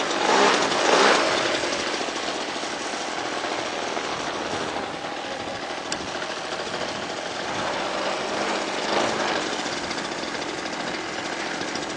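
Quadra Q65 two-stroke gas engine on an RC Fly-Baby biplane, running steadily with a rapid rattling beat, a little louder in the first couple of seconds.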